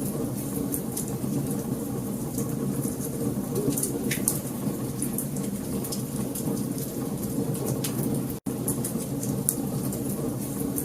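Wood fire crackling in a fireplace, with irregular sharp snaps and pops over a steady low rumble of burning logs. The sound drops out for a split second about eight seconds in.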